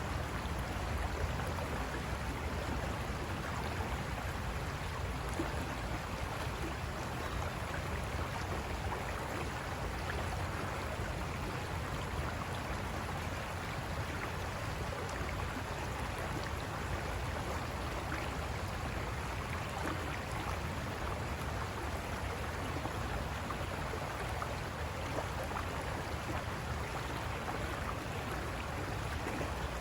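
River water running and splashing over rocks, a steady rushing with small splashes throughout.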